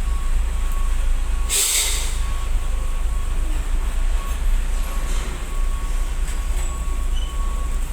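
Steady low rumble of heavy engines, with a faint steady whine and a short hiss about one and a half seconds in.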